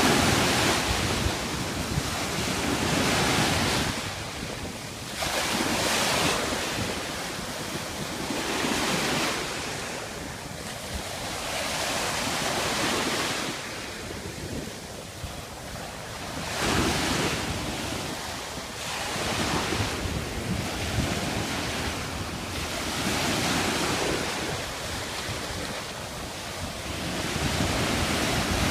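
Atlantic Ocean surf, waves breaking and washing in, swelling and falling every few seconds, with wind buffeting the microphone.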